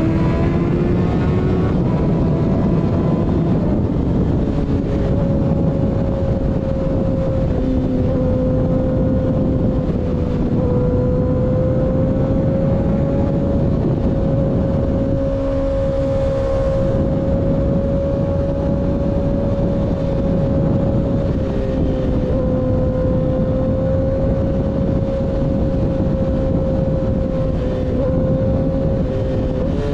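Sport motorcycle engine, breathing through an unbaffled slip-on exhaust, holding a steady high rpm while cruising, with wind rushing past. The pitch climbs at the start, then stays nearly level with only small dips.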